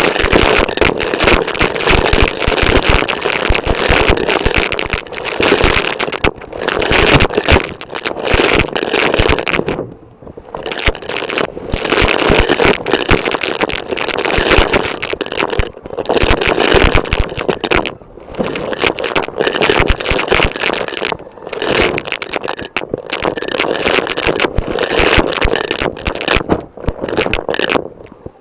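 Vacuum cleaner heard close up at its floor head, with a loud crackling and scraping rush as it sucks up debris and drags across the floor. The noise breaks off briefly several times as the head is lifted or moved.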